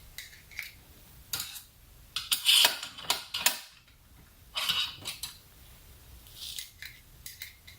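Small metal tools and parts clinking and rattling as they are picked through and handled on a hard surface, in irregular clusters of sharp clicks, loudest about two and a half seconds in and again near five seconds.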